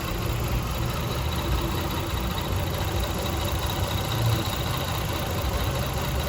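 1999 Lexus RX 300's 3.0 L V6 idling unevenly in park, struggling with a cylinder 6 misfire that the owner puts down to a bad ignition coil.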